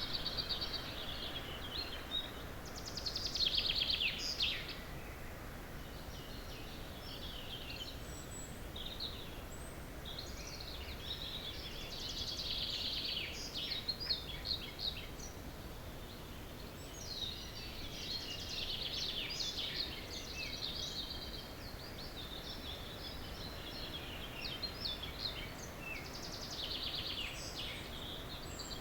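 Dawn chorus of several songbirds singing, their phrases overlapping and repeating every few seconds over a steady low background noise.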